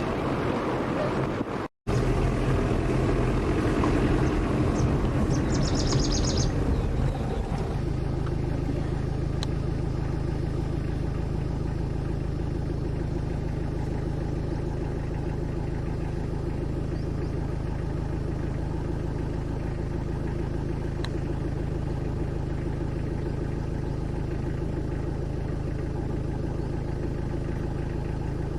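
Vehicle engine running steadily, heard from on board. There is a brief dropout about two seconds in. After that the sound is rougher and louder until about seven seconds in, then settles into an even drone.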